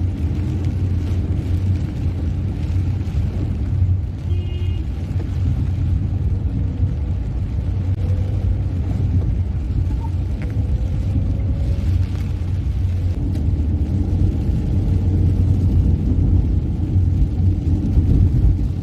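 Car driving steadily, a continuous low rumble of engine and road noise.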